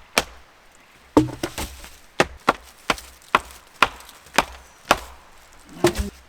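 Wood being chopped: a string of sharp, separate blows, about two a second through the middle, with a few irregular strikes near the start and end.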